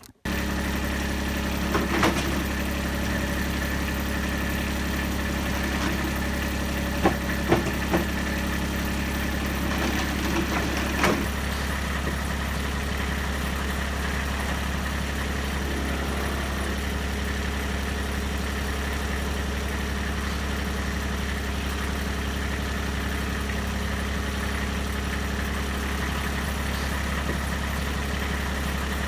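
Kubota RTV 1100 utility vehicle's three-cylinder diesel engine idling steadily, with a handful of sharp knocks in the first eleven seconds.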